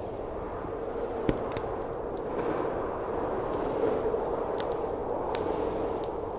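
Wood fire crackling, with scattered sharp pops, over the steady noise of blizzard wind that swells a little midway.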